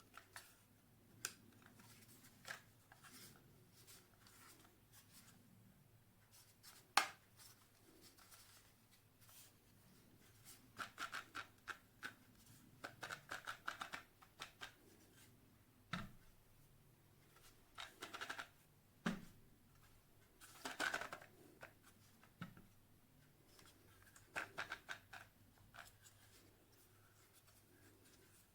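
Faint scattered clicks and short bursts of scratchy rustling in clusters, like small objects being handled.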